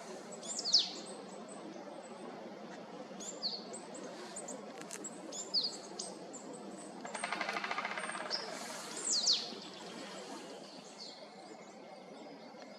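Wild birds calling in a forest: several high, sharply falling call notes and short chips. About seven seconds in comes a rapid roll of knocks, a woodpecker drumming.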